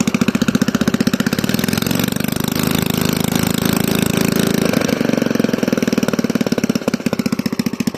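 Toro mower's small engine running on the bench with its governor linkage just straightened. It idles with distinct firing pulses, speeds up about two seconds in so the pulses blur together, and drops back to idle near the end.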